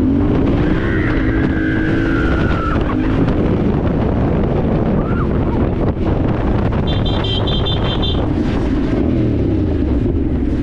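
Dirt bike engine running under way, its pitch wavering up and down with the throttle, over heavy wind noise on the microphone. A short run of high beeps sounds about seven seconds in.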